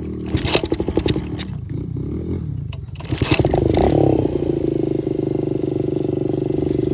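125cc dirt bike engine running, with clattering knocks in the first two seconds. About three seconds in it is revved up, then held at a steady, higher and louder speed.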